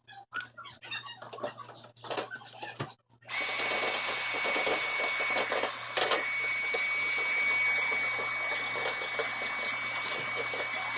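A small electric motor starts about three seconds in and runs steadily, with a rushing airflow and a steady high whine, then cuts off at the end.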